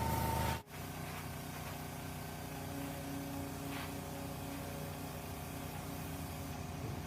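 Air compressor's electric motor running with a steady hum. Less than a second in, the sound breaks off abruptly, losing its high whine, and carries on quieter and lower.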